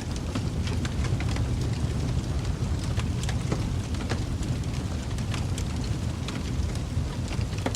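Wood fire in a fireplace crackling: irregular sharp snaps and pops, several a second, over a steady low rumble of the flames.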